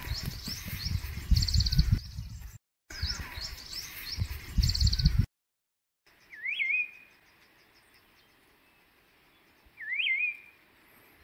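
Wild birds chirping and trilling over a low rumble, then, after a break, a bird's short swooping whistled call twice, about three and a half seconds apart.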